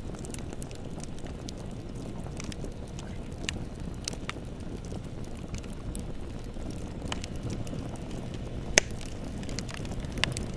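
Bonfire burning: a steady low rumble of flames with scattered sharp crackles and pops, one loud pop near the end.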